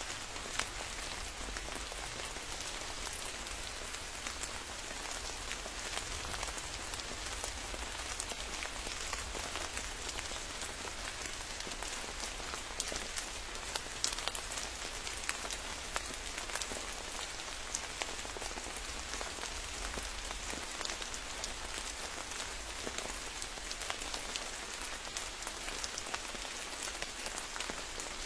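Steady forest rain: an even hiss of rainfall, with many single drops ticking close by throughout.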